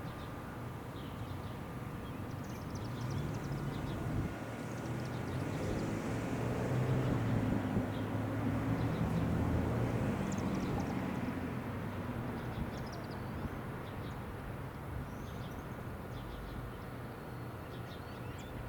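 Engine rumble of something passing at a distance, swelling for several seconds and then fading away, with small birds chirping faintly throughout.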